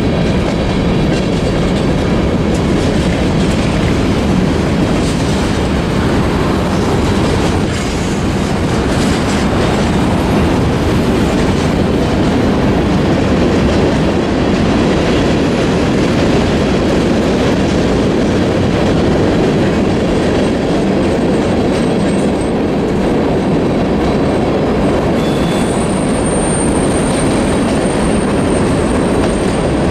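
Freight cars of a mixed manifest train rolling past at trackside, a steady rumble and clatter of steel wheels on rail. A thin, high-pitched wheel squeal comes in near the end.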